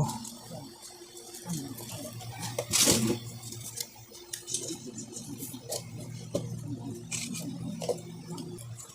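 Light handling noises from fittings being worked by hand: scattered small clicks and taps, with one short rasping noise about three seconds in, over a faint steady low hum.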